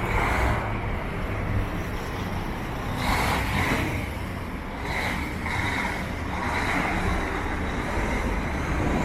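Downtown street traffic: a steady low rumble of engines and tyres, with swells as vehicles pass about three, five and six and a half seconds in.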